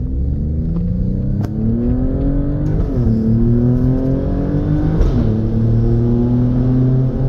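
Alfa Romeo Stelvio Quadrifoglio's twin-turbo V6 accelerating, its pitch climbing steadily and dropping sharply at two upshifts, about three and five seconds in.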